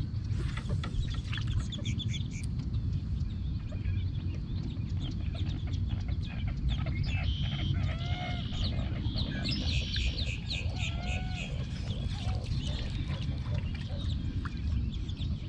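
Wild birds calling and clucking over a lake: many short, quick chirps and clucks, with a few longer swooping calls partway through. A steady low rumble runs underneath.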